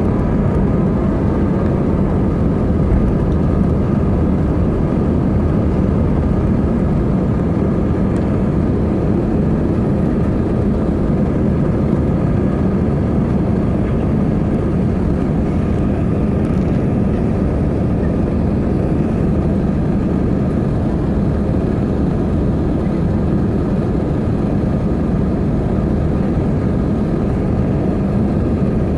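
Airbus A320 jet engines running, a steady loud rumble with a faint constant whine in it.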